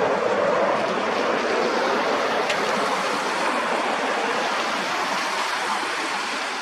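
Learjet C-21A's jet engines: a steady rushing roar, slowly fading.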